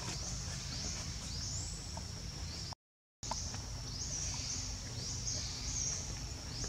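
Forest ambience of high, repeated bird chirps that sweep up in pitch, over a steady low rumble. The sound cuts out completely for about half a second midway.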